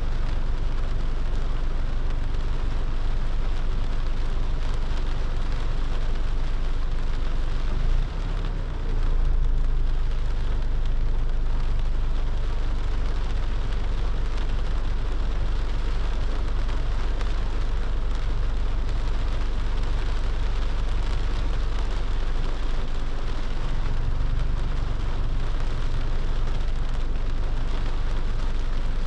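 Steady rain falling on a moving car, over a constant low rumble of the car and its tyres on the wet road.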